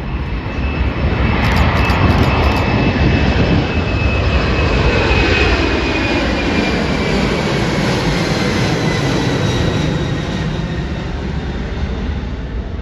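Engines of a large aircraft flying past: a loud roar that builds over the first couple of seconds, with a whine that falls steadily in pitch as it goes by, then eases off near the end.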